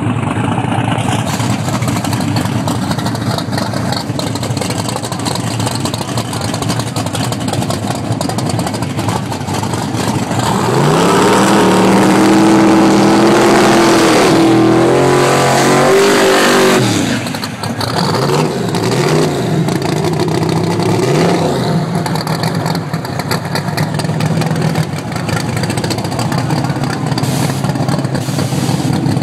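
Car engine idling, then revved up hard about ten seconds in and held high for about six seconds before dropping. It is blipped several times in quick succession, then settles back to a steady idle.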